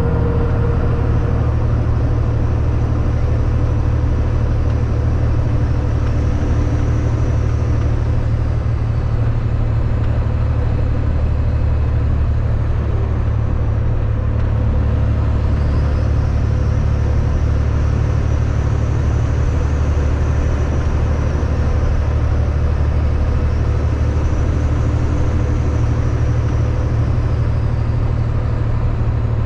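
Kenworth W900 semi-truck driving at a steady speed, its diesel engine a constant low drone under road noise.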